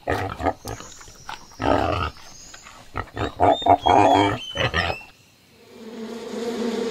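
Pigs grunting in a rapid run of short bursts, with a few high squeals, stopping about five seconds in. Then a steady bee buzz rises in and carries on.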